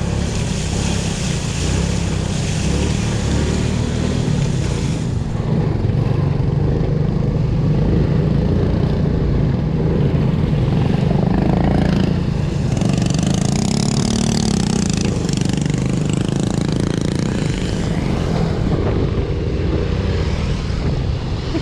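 Motorcycle engine running steadily under way, with a high hiss that fades about five seconds in and returns past the middle.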